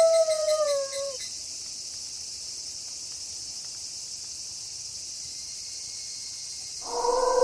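A wolf howl falls in pitch and dies away about a second in, leaving a steady chorus of night crickets. Near the end a new long howl begins, held on a steady pitch.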